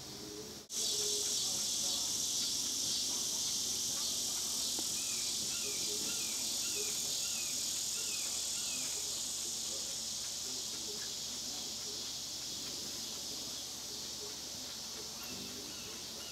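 Steady high-pitched insect chorus, starting abruptly about a second in. From about five to nine seconds in, a run of short chirps repeats about twice a second.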